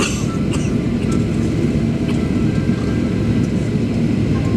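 Steady low rumble inside the cabin of a Boeing 737 Next Generation airliner, with a few brief light rattles just after the start.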